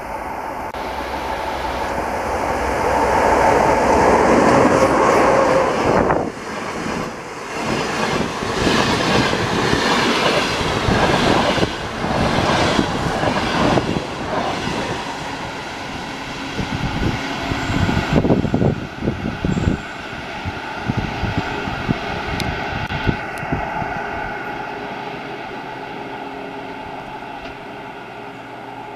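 A passenger train hauled by an EP20 electric locomotive passing at speed. The rush of noise builds as the locomotive approaches and passes about five or six seconds in. The coaches follow with a rapid clickety-clack of wheels over rail joints, which fades steadily as the train recedes.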